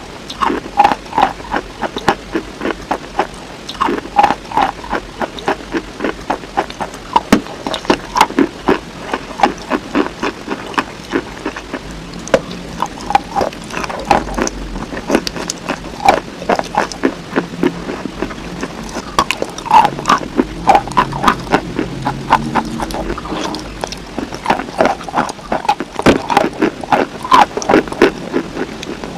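Close-miked mouth sounds of eating a handful of thick nut butter: irregular smacking and clicking of lips and tongue in the sticky paste, two or three clicks a second.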